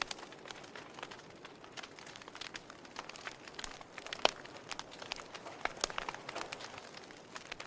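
Wood fire in a fireplace crackling: a continuous scatter of small pops and snaps over a soft hiss, with one sharper pop about four seconds in.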